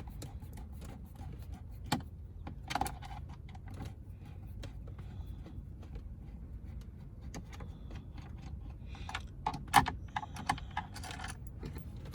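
Scattered small clicks and light rattles of hand tools and plastic parts being handled, with a sharp click about two seconds in and a cluster of louder clicks near the end, over a steady low hum.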